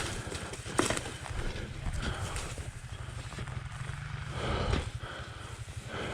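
Footsteps with a few sharp knocks, over a steady low rumble.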